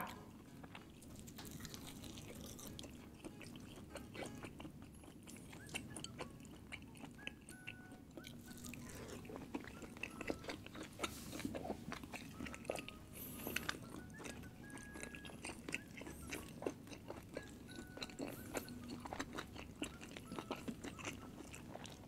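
Close-miked chewing: a person eating with many short wet mouth clicks and smacks. One sharp click comes right at the start.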